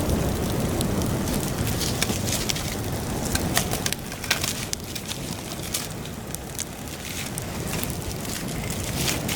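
Campfire crackling and popping in sharp, scattered snaps over a heavy low rumble of wind buffeting the microphone. The wind rumble is strongest at first and eases about four seconds in.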